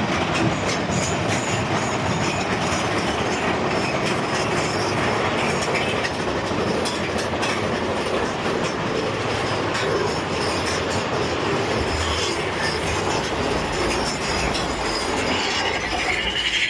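Big Thunder Mountain Railroad mine-train roller coaster cars running along the track, a steady loud rattle and clatter of wheels on rails.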